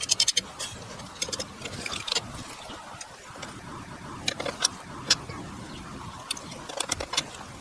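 Irregular sharp clicks and light taps from hand tools and wooden parts being handled during woodworking, with a quick run of clicks at the start and scattered single ones after.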